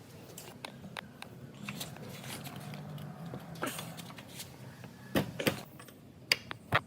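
Light clicks and knocks of hand tools and small metal parts being handled, ending in four sharper knocks in the last two seconds.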